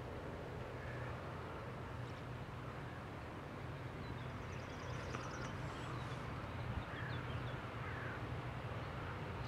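Distant electric-locomotive-hauled freight train approaching: a faint, steady low rumble and hum that grows slightly louder. Birds call over it, with a rapid high trill about five seconds in.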